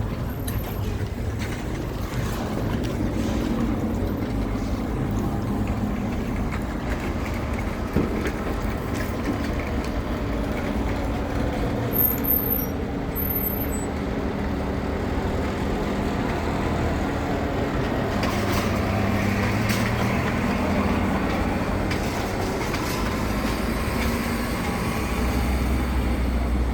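A motor vehicle's engine running steadily as it moves, its low hum shifting in pitch, with continuous road noise.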